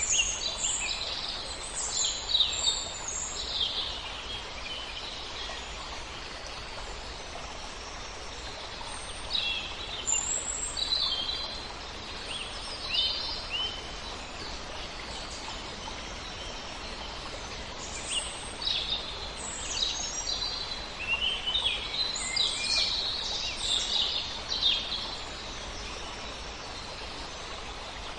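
Small birds chirping in several bursts of quick high calls, over a steady rush of wind through leaves.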